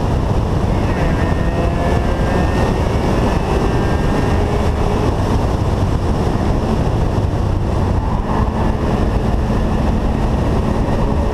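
Mazda RX-7's rotary engine under way on a straight, heard from inside the cabin with heavy wind and road noise. The engine note climbs slowly, then settles into a steady low drone about eight seconds in.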